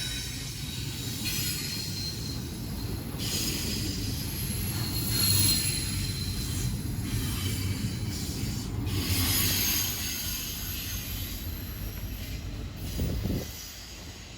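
Freight train rolling past, its cars' wheels giving off a high-pitched squeal that comes and goes over a steady low rumble; the rumble drops away shortly before the end as the train finishes passing.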